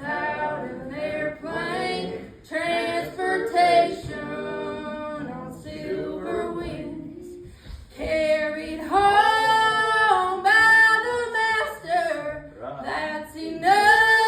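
A woman singing a gospel song, holding long sustained notes.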